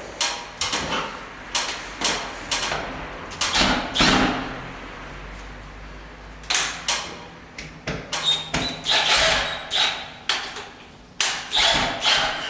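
Irregular scrapes and knocks of hand tools on plaster, a dozen or so short strokes with gaps between.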